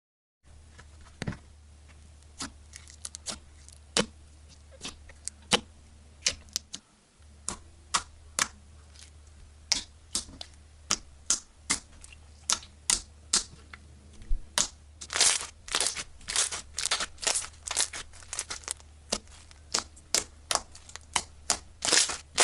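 Slime being squeezed and pressed, making sharp irregular clicks and pops that come thicker and louder from about two-thirds of the way in, over a low steady hum.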